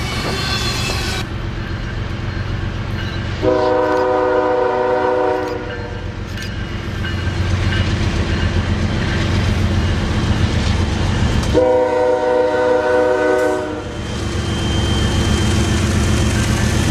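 Diesel freight locomotive sounding its multi-note air horn in two long blasts, several seconds apart, over the steady rumble of the train running on the rails.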